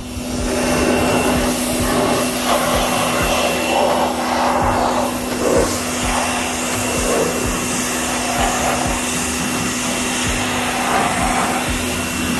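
Electric power tool with a wire wheel running steadily, a constant motor hum under a wavering scratchy scouring as it strips surface rust from the steel trunk lid. It starts abruptly.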